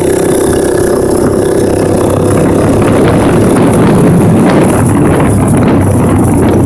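1984 Honda ATC 200X's single-cylinder four-stroke engine, breathing through an aftermarket DG exhaust, running under way while being ridden. The engine note holds steady at first, then turns rougher and a little louder from about two seconds in before steadying again near the end.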